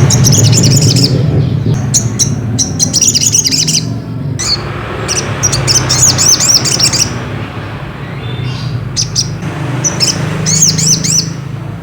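Sogok ontong (sogon) bird chattering in four bursts of rapid, high, twittering chirps, the notes looping quickly up and down, over a steady low hum.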